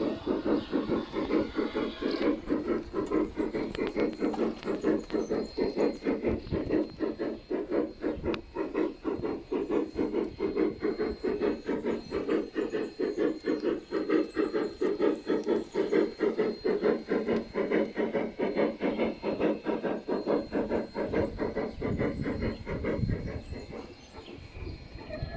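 G-scale model train running on garden railway track, a steady rapid rhythmic beat that eases off in level near the end.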